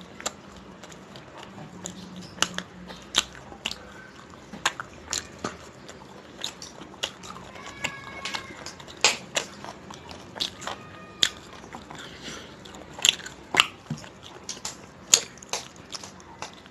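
Chewing and wet mouth smacks of a man eating chicken curry and naan by hand, a string of sharp irregular clicks several times a second, with his fingers working the curry-soaked naan on a steel plate.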